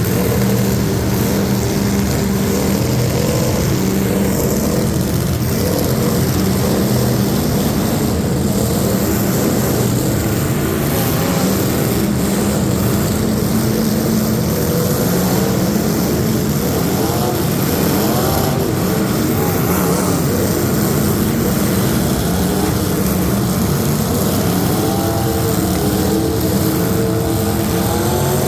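Truck engines running loudly and without a break, with a low steady drone and higher tones that waver in pitch at times.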